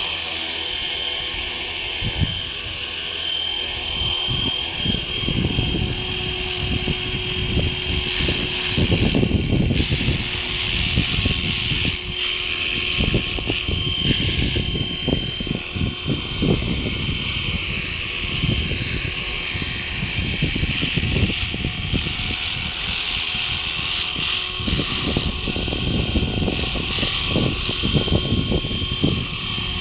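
E-Razor 450 electric model helicopter hovering, its motor and gears giving a steady high whine over the rotor hum. Strong gusty wind buffets the microphone with irregular low rumbles, heavier from about eight seconds in.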